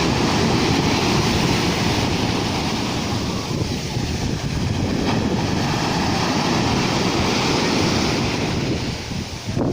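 Rough-sea surf washing steadily onto the shore, with wind buffeting the microphone.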